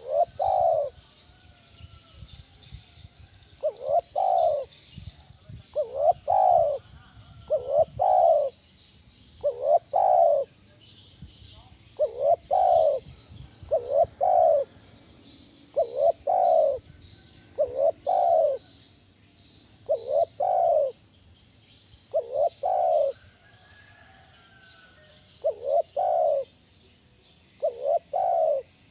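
Spotted dove cooing its song over and over, a short coo phrase about every two seconds. It is used as a lure call to set other doves calling. Faint high chirps of small birds run in the background.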